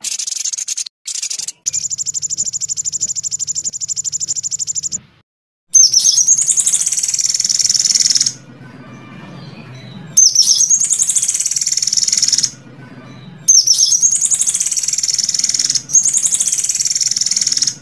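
Recorded songbird song edited into blocks: a fast, even, high-pitched trill lasting about three seconds, then three bursts of rapid high chattering notes, each cut off abruptly, with a faint low hum under them.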